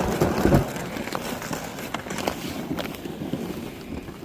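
Footsteps crunching on snow-covered lake ice, heaviest in the first half-second, then an irregular walking pace.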